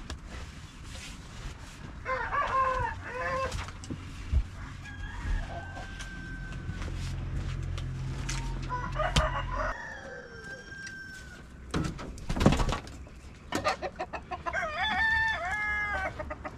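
Chickens calling: a rooster crowing and hens clucking, with three drawn-out, wavering calls about two, eight and fourteen seconds in. A loud thump comes about twelve seconds in.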